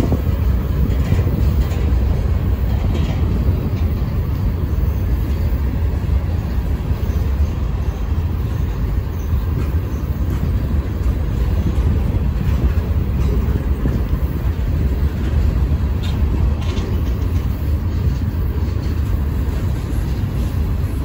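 Freight train's hopper cars rolling slowly past at close range: a steady low rumble of steel wheels on the rails.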